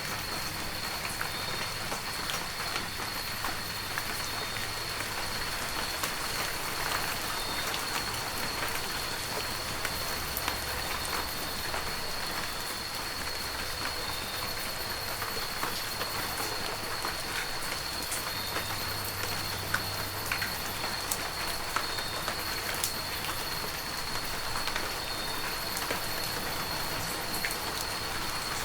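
Heavy rain falling steadily, a dense patter of individual drops over an even hiss. A thin, steady high tone runs through it without a break.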